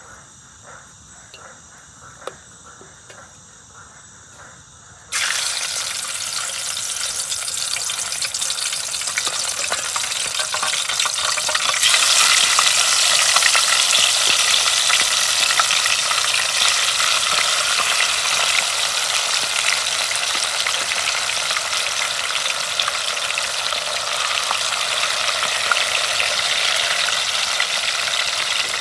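Faint steady insect trilling, then about five seconds in a sudden loud sizzling of fish frying in hot oil, which grows louder again about twelve seconds in and keeps on steadily.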